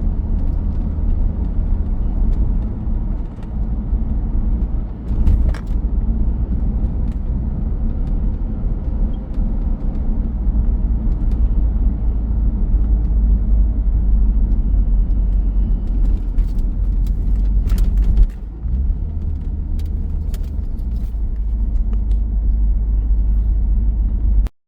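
A 2002 C5 Corvette's V8 running under way through a custom axle-back exhaust with Magnaflow mufflers: a steady low rumble with road noise. A few light clicks are heard, around 5 seconds in and again near 16–18 seconds, where the rumble briefly dips.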